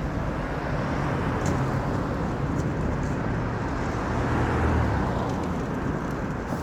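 Steady road-vehicle noise: a low rumble under an even hiss, swelling slightly about four seconds in.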